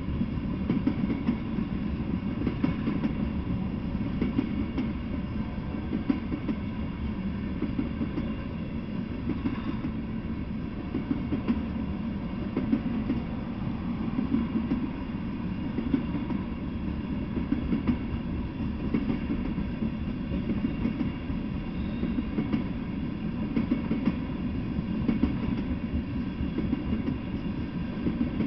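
Freight train of tank cars rolling past: a steady rumble of steel wheels on the rails, with irregular clacks as the wheels cross rail joints.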